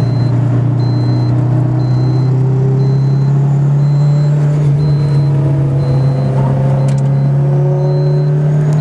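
Car engine heard from inside the cabin, running hard at track speed, its note climbing slowly from about halfway through as the car accelerates. A faint high beep repeats about once a second.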